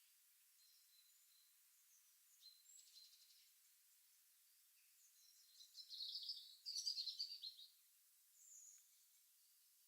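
Faint morning birdsong: a few brief, high-pitched chirps, then one louder, rapid twittering phrase about halfway through that lasts about two seconds.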